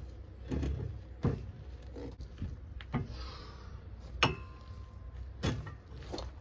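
Steel tire levers knocking and scraping against a motorcycle wheel rim as a new rear tire's bead is worked on by hand: a string of irregular sharp knocks, one ringing briefly past the middle.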